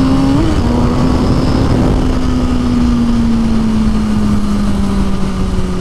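Motorcycle engine running while riding, a steady drone that slowly drops in pitch, over a heavy rush of wind noise. There is a brief blip in pitch about half a second in.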